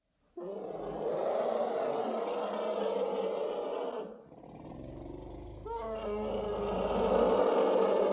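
A farm animal calling in long, drawn-out cries, with a lull about halfway through.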